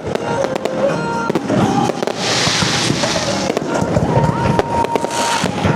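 Aerial fireworks going off in a rapid string of bangs, with long hissing, crackling sprays about two seconds in and again near the end. Music plays underneath.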